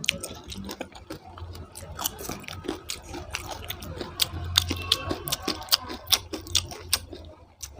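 Close-miked eating of rice and potato curry: irregular, rapid wet mouth clicks and chewing, over a low steady hum.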